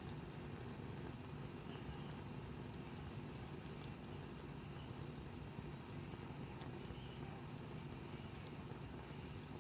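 Wood fire burning with a steady, dense crackle, under short trains of high chirps that repeat every few seconds.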